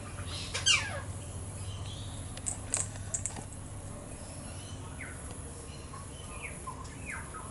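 Birds calling: one loud whistle that falls steeply in pitch about half a second in, then a few sharp high clicks and scattered faint short chirps.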